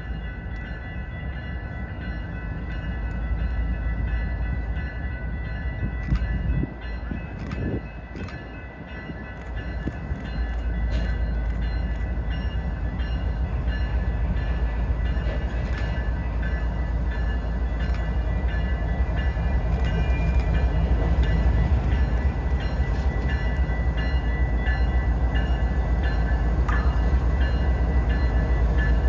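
Kansas City Southern diesel locomotive leading a freight train past, its engine rumble growing louder about a third of the way in as it draws near, with a few sharp clicks.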